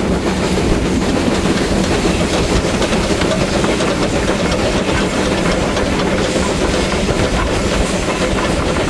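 Two 2ft-gauge Garratt steam locomotives double-heading a train, working steadily and loudly with exhaust chuffing and steam hiss.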